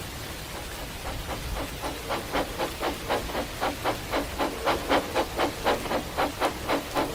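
Steam locomotive chuffing steadily, about three exhaust beats a second, the beats growing louder after about a second in.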